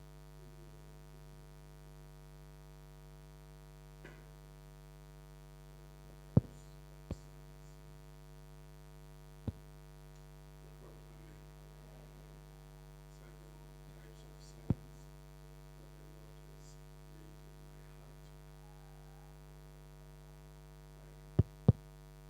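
Steady electrical mains hum with a low buzz, of the kind an audio system picks up. Six sharp clicks or knocks break through it at irregular moments, the last two close together near the end.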